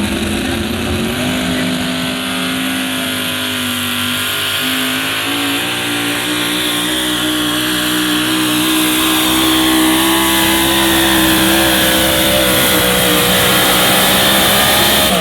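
A pulling vehicle's engine held at high revs as it drags the sled down the track. Its pitch steps up about five seconds in and holds steady, and it gets a little louder toward the end.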